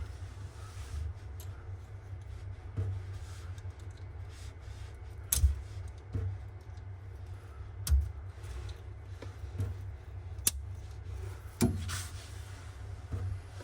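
Kitchen faucet installation work: scattered sharp clicks and knocks of tools and metal fittings being handled, over a low steady rumble.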